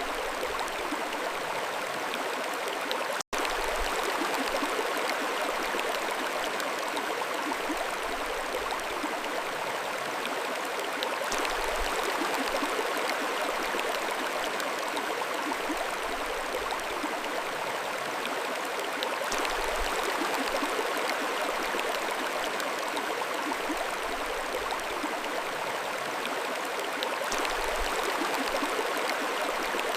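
Mountain stream flowing steadily over rocks, an even rushing and burbling of water. There is a split-second dropout about three seconds in.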